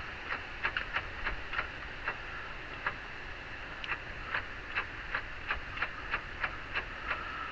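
Honda Fit driver's side front hub, wheel and brake rotor removed, turned by hand and giving a run of irregular ticks, about two to three a second. This is the side that turns smoothly with only a little play.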